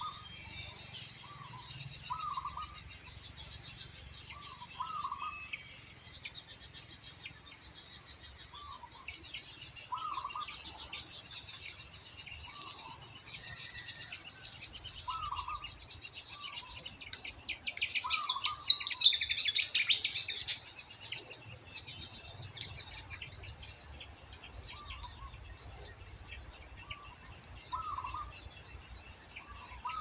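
Forest birds chirping and calling, with a short call repeating about every two seconds over a faint steady buzz. A louder burst of chirping lasting about two seconds comes a little past the middle.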